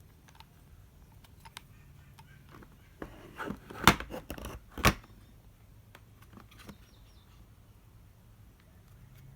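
Handling noises: a cluster of clicks and knocks of hard objects, the two loudest sharp knocks about a second apart in the middle.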